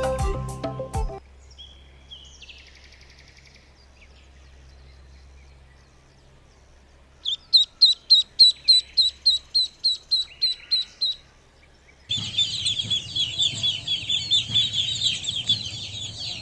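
Background music stops about a second in; after a quiet gap a bird gives a steady series of about fourteen short high chirps, roughly four a second, then a dense, rapid chattering of high chirps starts a little after halfway and runs on.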